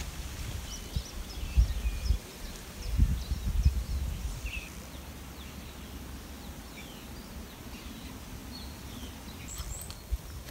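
Wild birds chirping and calling with scattered short notes. In the first few seconds, low thuds and rumble on the microphone are the loudest sounds.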